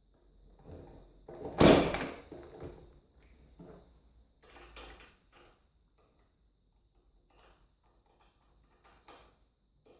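Workshop handling sounds on a workbench: a loud clunk a little under two seconds in, then several lighter knocks and clicks that thin out.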